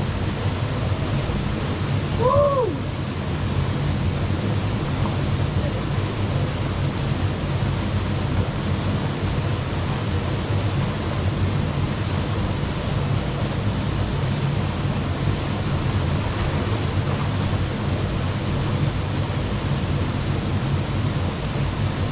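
Waterfall rushing in a loud, steady roar. About two and a half seconds in, a single short call rises and falls over it.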